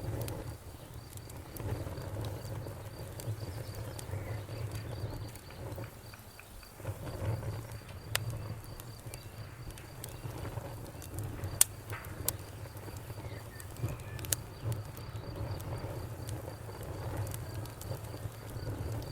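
Crackling fire burning with a steady low rumble and scattered sharp pops and snaps, one louder pop a little past halfway.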